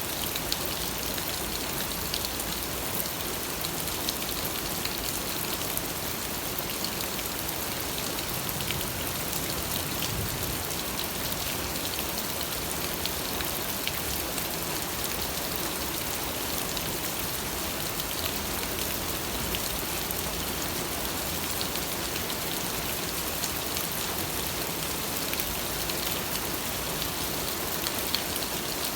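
Steady rain falling, a constant wash of noise sprinkled with the small ticks of individual drops striking a surface.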